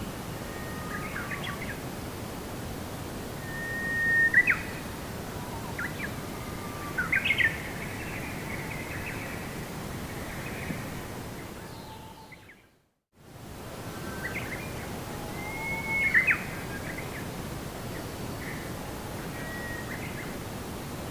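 Birds chirping and calling in short whistled notes and trills over a steady background hiss. About halfway through, everything fades out to silence for a moment and fades back in.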